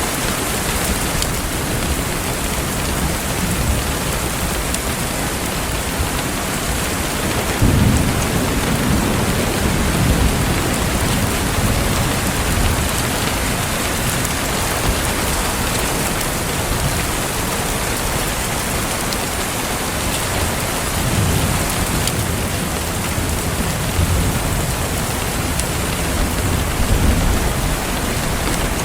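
Steady rain falling, with low rolls of thunder swelling about a quarter of the way in and again through the last third.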